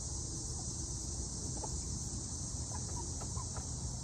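Steady high-pitched insect chorus outdoors, with several short, soft chicken chirps from about a second in and a few more around three seconds in.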